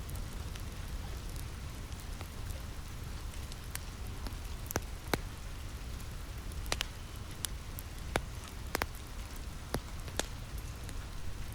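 Steady rain on a roof, with a fire crackling underneath and a handful of sharp pops scattered through the middle.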